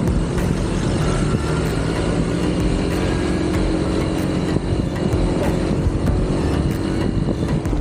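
Motorcycle engine running steadily on the move, with continuous road and wind noise.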